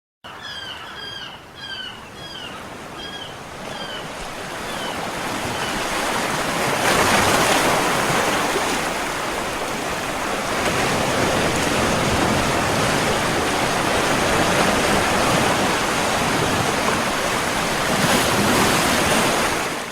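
Nature sound effect: a bird chirps in quick, short, falling calls for the first few seconds over a rising rush. The rushing noise grows loud about six seconds in, swells and holds, then cuts off abruptly at the end.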